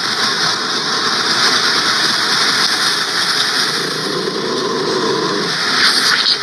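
Roomba robot vacuum running, a steady mechanical noise from its motor and brushes.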